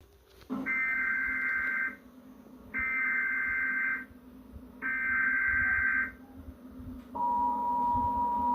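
Emergency Alert System header for a tornado warning: three short bursts of screeching data tones about a second apart. About 7 s in, the steady two-tone attention signal starts.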